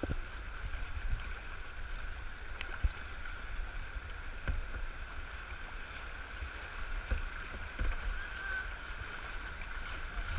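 Steady rush of river water around a moving kayak, with a low rumble underneath and a few light knocks scattered through.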